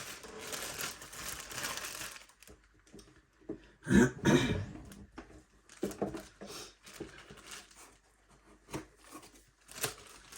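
Plastic packaging crinkling and rustling as a kit is handled and unpacked by hand, with a louder burst of handling noise about four seconds in and scattered light clicks and rustles after it.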